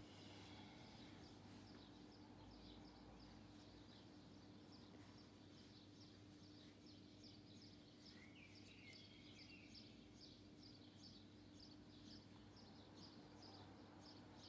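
Near silence: faint room hum, with a small bird chirping faintly in the background, a regular series of short high chirps about two a second and a brief trill about halfway through.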